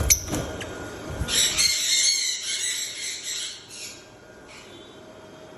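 Lovebirds chattering and screeching together, loud and high-pitched for about two and a half seconds, then dying down. A couple of knocks come just before it.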